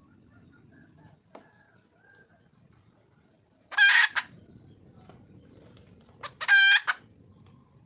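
Wild junglefowl hen calling to attract a male: two short, loud calls, about two and a half seconds apart.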